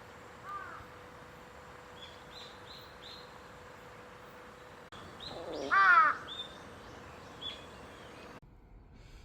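Outdoor birdsong over a steady background hiss: a few short, high chirps, then one loud call about six seconds in, the loudest sound.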